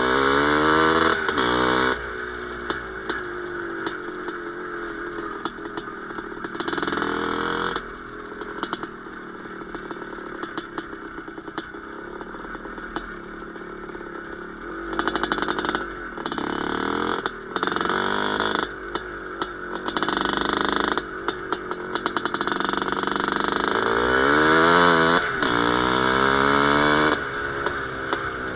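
Single-cylinder two-stroke IZh Planeta Sport motorcycle engine revving repeatedly, its pitch rising and falling, with lower, steadier running in between.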